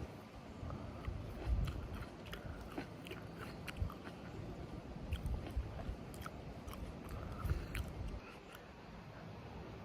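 A person biting and chewing fresh fruit, with many small irregular clicks and crunches.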